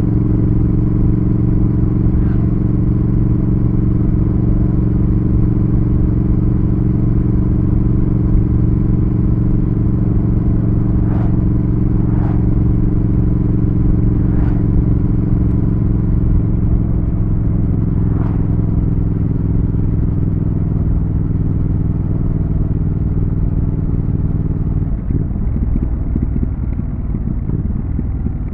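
Triumph Thruxton RS's 1200 cc parallel-twin running at steady revs under way, a constant engine note that dips slightly partway through. Near the end the steady note gives way to a rougher, uneven sound, with a few faint ticks along the way.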